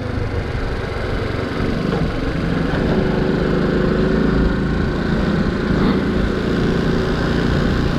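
Honda C90 step-through motorcycle's small single-cylinder engine running steadily under way, with wind rumble on the microphone. Its note becomes clearer and steadier about three seconds in.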